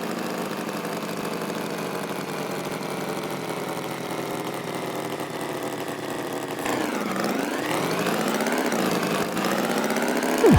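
Animated tractor engine sound effect idling steadily, then dipping and rising in pitch twice in the second half as it revs.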